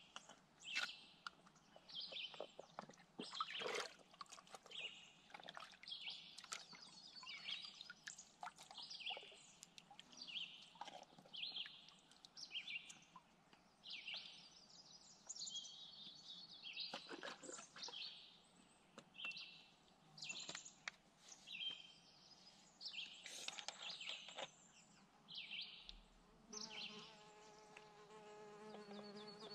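Woodland birds chirping in short high notes, over and over, with scattered clicks and knocks close by. Near the end a low steady buzz comes in.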